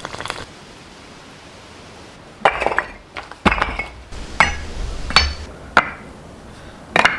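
A string of about six sharp clinks and knocks of hard kitchenware, some with a short ringing tail, starting about two and a half seconds in.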